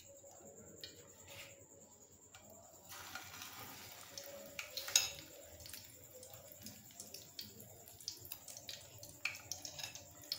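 An egg-coated potato-and-chicken cutlet sizzling in hot oil in a kadai. The sizzle starts about three seconds in as the cutlet goes into the oil, with one sharp clink about five seconds in.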